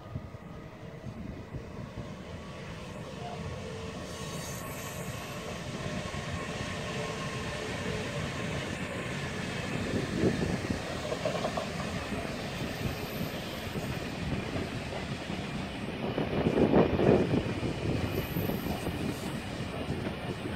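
Long freight train of hopper wagons rolling past on steel rails, a steady running noise with rapid wheel clicks that grows louder about halfway through and again near the end.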